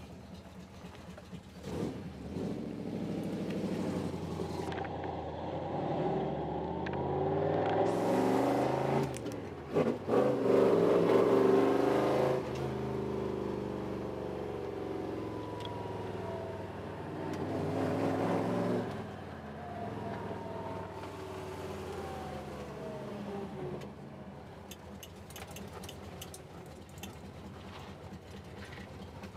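1967 Ford Mustang's V8 engine running, its pitch rising and falling several times as it is revved or driven. It is loudest about ten seconds in and quieter over the last third.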